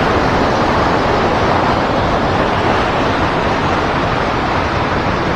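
Steady rushing of river water flowing around the wading angler, an even hiss without distinct splashes.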